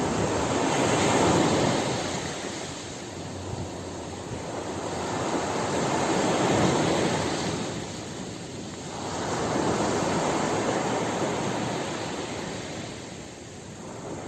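Ocean waves breaking and washing on a beach, the surf swelling and falling back roughly every five or six seconds, three swells in all.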